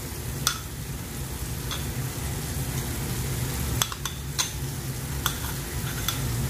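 An onion-tomato masala sizzling steadily in a frying pan while a spoon scrapes thick ground spice paste off a plate into it. Sharp clicks of the spoon against the plate come every second or so.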